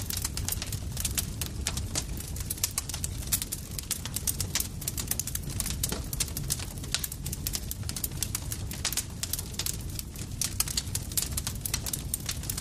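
Campfire crackling: a constant, irregular run of sharp snaps and pops from burning wood over a low, steady rumble of the flames.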